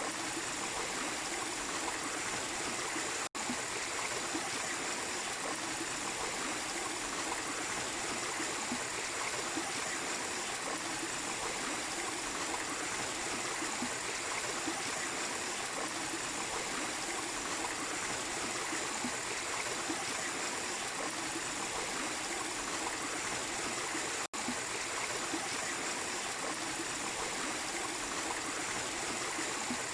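Small waterfall splashing and running steadily into a stream. The sound cuts out for an instant twice, about three seconds in and again some twenty seconds later.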